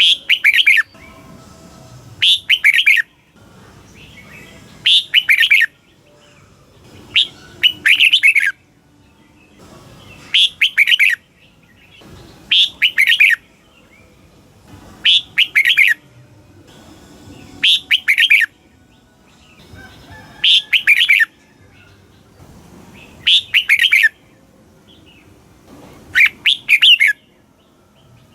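Red-whiskered bulbul singing: short, loud, warbling phrases repeated about every two and a half seconds, with brief pauses between them.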